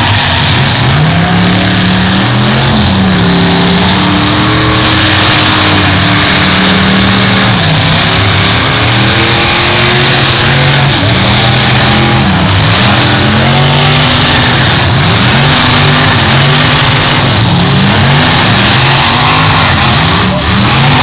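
Several V8 demolition-derby cars revving at once, their engine notes rising and falling over one another as they accelerate and back up between hits.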